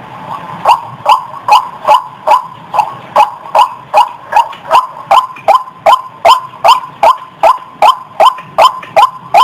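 White-breasted waterhen (ruak-ruak) calling in a rapid, even series of short calls, each dropping in pitch, about two and a half a second, starting just under a second in.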